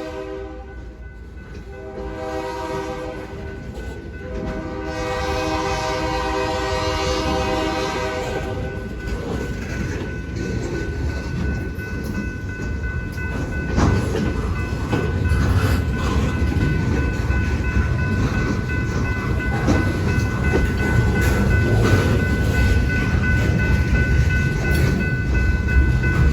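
Train horn sounding in several blasts, the last and longest ending about eight seconds in. Then the low rumble and clickety-clack of the train rolling past, growing louder, with a thin steady ringing tone above it.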